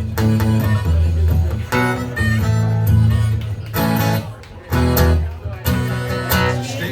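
Guitar strumming the instrumental break of a live country-folk song, a strum every half second or so with strong low notes.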